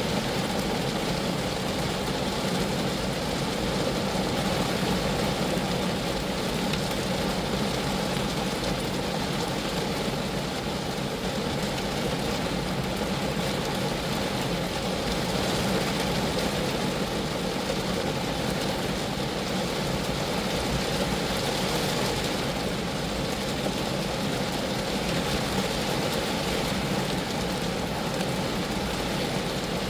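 Steady rain falling on a Geo Metro, an even, unbroken hiss and patter of drops on the car.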